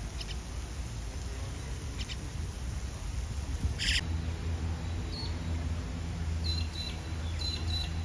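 Birds chirping: a handful of short, high calls scattered through, some in quick doubles and triples, over a steady low rumble.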